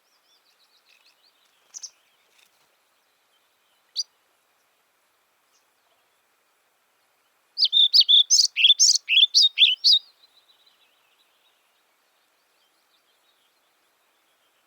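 A small songbird sings one loud phrase of about a dozen quick, repeated high notes lasting a couple of seconds, about halfway through. A few faint single chirps come before it.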